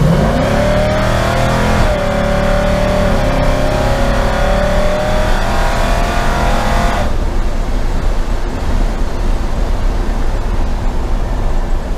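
LS-swapped V8 in a Chevy C10 pickup accelerating hard: the engine note sweeps up quickly at the start, then climbs slowly for several seconds. About seven seconds in, the higher engine tones drop away suddenly as it comes off the throttle, leaving a steady engine and road rumble.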